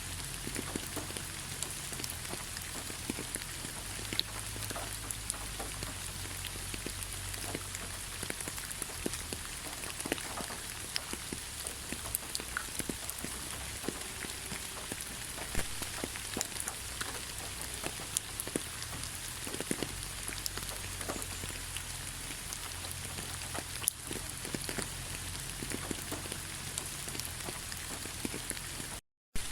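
Steady rain falling, a constant hiss dotted with many individual drops ticking. The sound cuts out completely for a moment just before the end.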